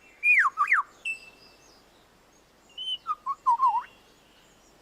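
Superb lyrebird singing: two loud whistled notes sliding down in pitch right at the start, a brief steady whistle, then a quick run of warbling notes about three seconds in.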